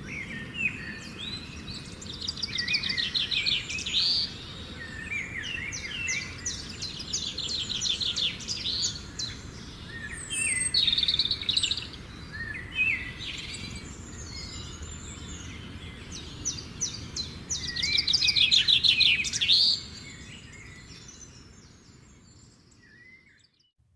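Birds singing and chirping, with repeated rapid trills and short whistles over a faint low background hum. The calls come in spells and fade out over the last few seconds.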